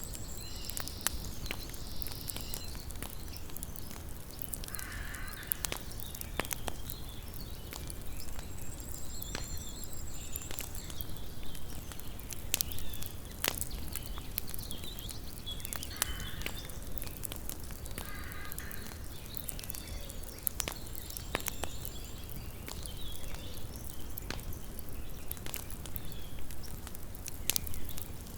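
Small wood campfire crackling, with frequent sharp pops and snaps scattered irregularly over a low steady hiss. A few short animal calls sound in the background, about five seconds in and again twice later.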